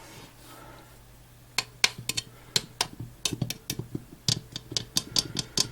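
Irregular light clicks and knocks from about a second and a half in: an earthenware pot being handled and knocked against, hard fired clay against fingers or a surface.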